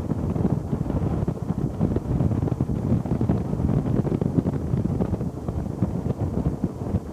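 Wind buffeting the microphone while riding on a motorcycle: a dense, gusting low rumble.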